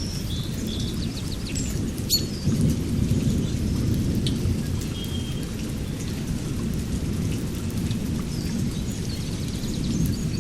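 A continuous, uneven low rumble with birds chirping over it.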